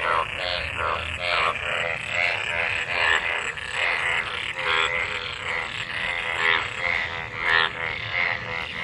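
Breeding chorus of many frogs after monsoon rain: short croaking calls, about two a second, overlapping one another.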